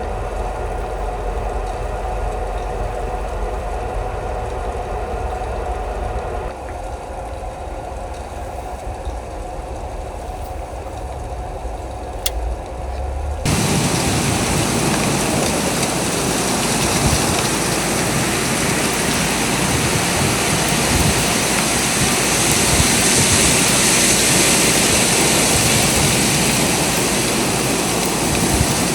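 A steady low engine-like hum with a few faint steady tones. About halfway through it cuts suddenly to a louder, even rushing hiss of blizzard wind and blowing snow.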